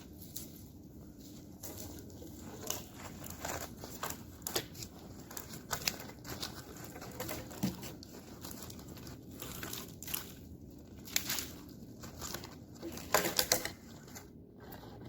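Dry twigs and brushwood crackling and snapping in irregular bursts, as firewood is gathered, with a louder cluster of snaps near the end.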